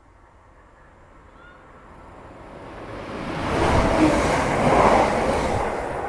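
CrossCountry Class 170 Turbostar diesel multiple unit passing through at speed: the noise of engine and wheels swells as the train approaches, is loudest about four to five seconds in as it rushes by, then starts to fade.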